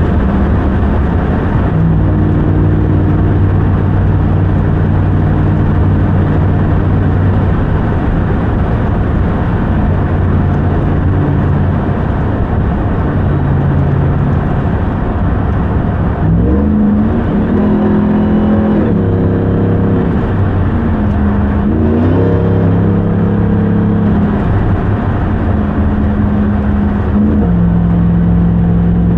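2021 Ram 1500 TRX's supercharged 6.2-litre Hemi V8 driving, holding a steady drone at first, then the revs climb and drop several times in the second half as the truck accelerates through its gears, climbing again at the very end.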